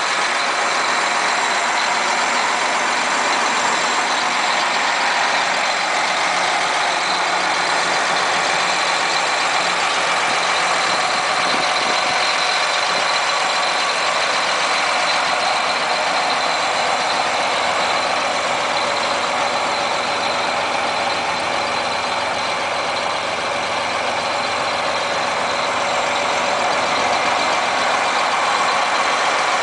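John Deere 8235R tractor's diesel engine idling steadily.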